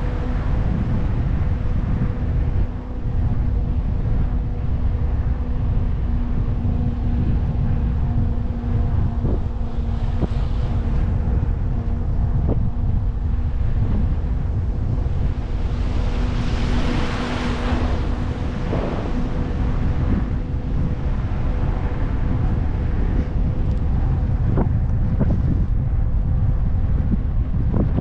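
Wind buffeting the microphone of a moving e-bike, with a steady low hum underneath. About two-thirds of the way in a rising and fading whoosh of a vehicle passing, and a few light knocks near the end.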